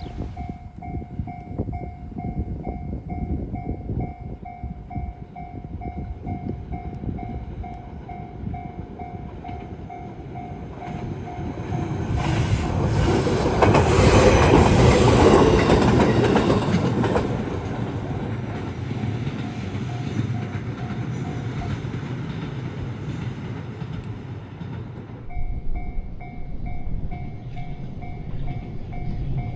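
Japanese level-crossing warning bell ringing in a steady repeated ding while an electric multiple-unit train runs past with wheel clatter, loudest a little past the middle. The bell stops for a few seconds near the end, then starts ringing again.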